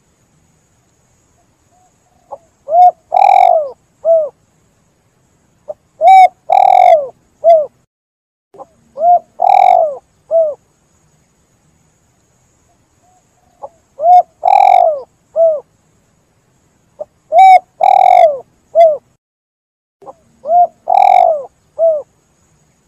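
Spotted dove (tekukur) cooing: six phrases of three or four low coos each, one every three to four seconds, with clean silence between.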